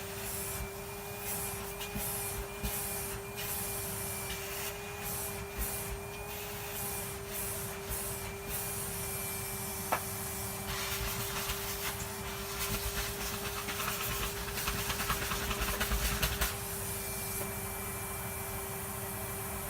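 Henry vacuum cleaner running steadily while its nozzle is worked over a dust-caked part, the suction hissing and rubbing and breaking off over and over. From about eleven to sixteen seconds in the suction gets louder and rattlier.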